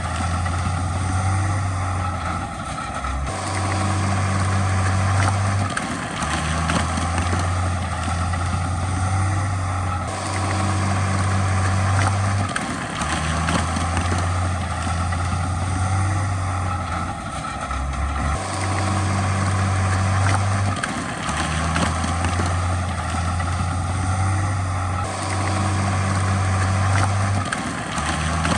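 Heavy diesel engines of earthmoving machinery running steadily with a deep drone, the drone cutting and shifting abruptly every few seconds.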